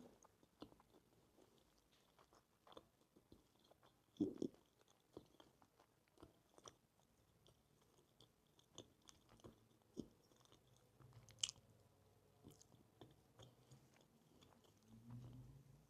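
Faint chewing and mouth sounds of a person eating a chicken shawarma: sparse soft clicks and smacks, with a slightly louder brief sound about four seconds in.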